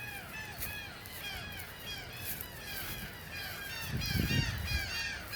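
A flock of birds calling over one another in a steady chorus of short, arched, repeated calls, which the owner takes for pelicans. A brief low rumble about four seconds in.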